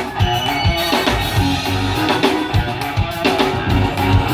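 Live band playing an instrumental passage: drum kit keeping a steady beat under bass and electric guitar.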